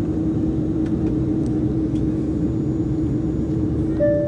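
Steady cabin hum inside an Embraer jet airliner parked at the gate: the rush and drone of the aircraft's air and machinery, with one constant tone running through it. Near the end, a higher tone sounds, the first note of a cabin chime.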